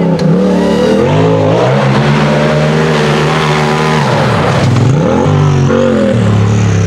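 Turbocharged Polaris RZR buggy engine revving hard under load, its pitch climbing and falling as the throttle is worked, with a sharp drop and recovery about four seconds in and again about a second later.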